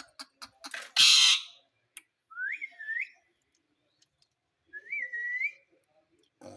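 Pet parrot whistling two short rising, wavering whistles, each under a second, a couple of seconds apart. Before them come a few light clicks and a loud harsh rasp lasting about half a second.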